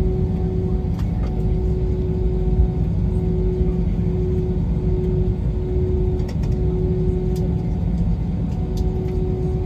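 Steady drone of an Airbus A321's jet engines heard inside the passenger cabin: a deep rumble with a constant hum, and a few light rattles.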